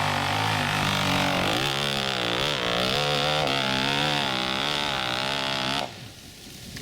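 Dirt bike engine revving, its pitch rising and falling repeatedly as the throttle is worked, then cutting off suddenly near the end.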